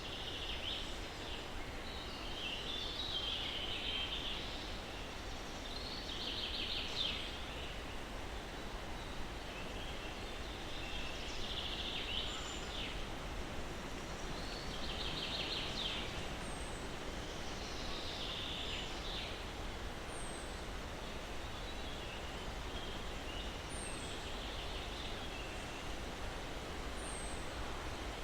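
Songbirds singing over a steady hiss of breeze through pine trees: trilled phrases come every few seconds. From a little past halfway, a short, very high falling note also repeats every three to four seconds.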